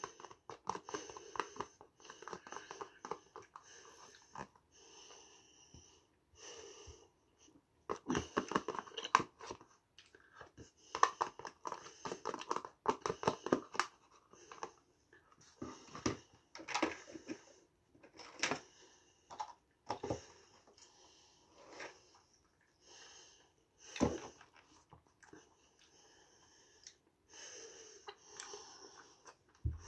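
Close-up chewing of soft, moist sandwich filler: bouts of wet crackling mouth sounds a few seconds long with short pauses, and a few sharper single clicks in the second half.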